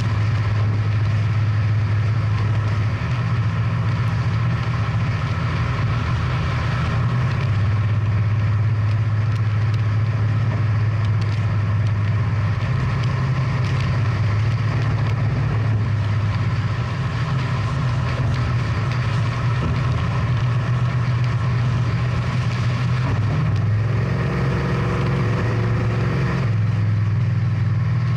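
Big-block V8 muscle car engine idling steadily with a deep, low hum.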